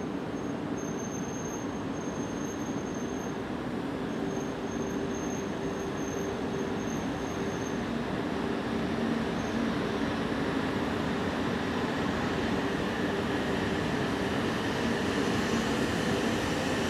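Shinkansen train at the station, a steady mechanical hum with low droning tones that grows gradually louder.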